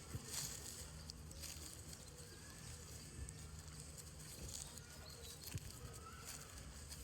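Faint outdoor ambience: a steady hiss with scattered soft ticks and a few faint chirps.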